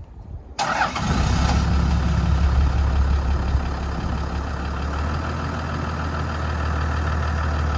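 Toyota Land Cruiser Troop Carrier engine starting in the first second, then running steadily at idle.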